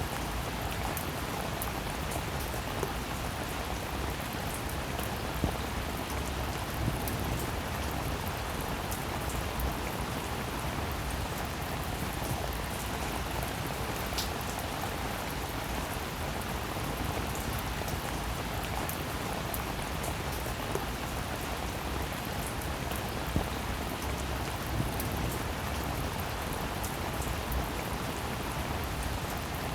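Steady rain falling: an even hiss dotted with many small drop ticks, with a few slightly louder drop hits now and then.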